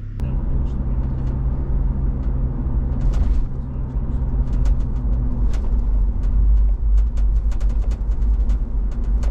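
Car driving, a steady low engine and road drone, with scattered short sharp ticks from about four seconds in.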